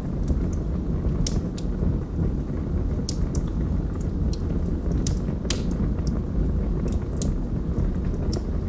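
Wood logs burning in a fireplace: a steady low rumble of flame with irregular sharp crackles and pops, about a dozen of them spread through the stretch.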